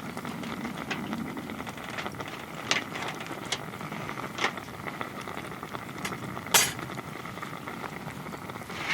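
Wood fire crackling steadily, with about five sharp pops, the loudest about two-thirds of the way through.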